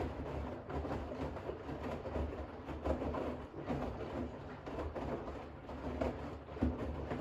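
Bosch WAX32GH1 front-loading washing machine tumbling a load of towels in the final rinse: water swishing in the turning drum over a low motor hum, which stops suddenly at the very end as the drum pauses.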